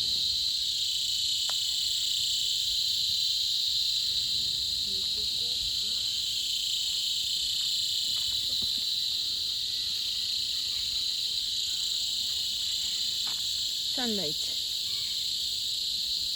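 Insect chorus, a continuous high-pitched buzzing drone that stays steady throughout.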